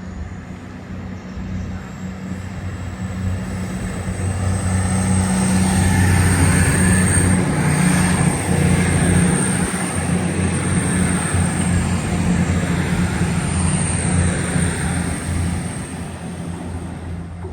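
Diesel train passing through the station: a steady low engine hum and rushing rail noise that build to a peak midway and fade away near the end.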